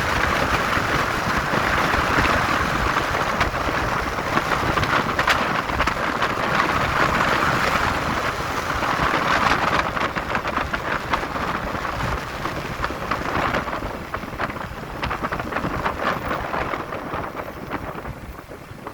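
Wind rushing and buffeting over the microphone of a moving motorcycle, with road and engine noise underneath. The noise eases off over the last few seconds.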